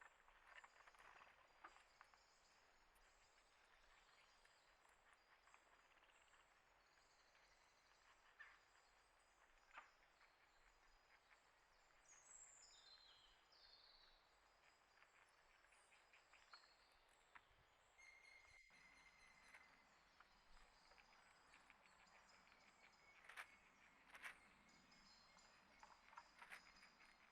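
Faint outdoor ambience with scattered small bird chirps and soft ticks, including a couple of quick falling chirps about halfway through and a thin steady high tone in the second half.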